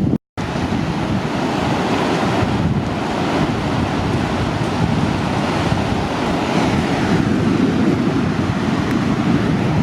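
Ocean surf from a large post-typhoon swell breaking and washing, with wind buffeting the microphone. The sound cuts out completely for a split second just after the start.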